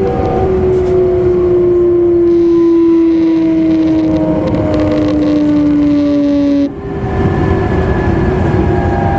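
E259 series electric multiple unit heard from inside its motor car: the traction motor and inverter whine slides slowly down in pitch as the train slows, over a steady rumble of running gear on the rails. About seven seconds in, the whine cuts off abruptly and a new, level tone takes its place.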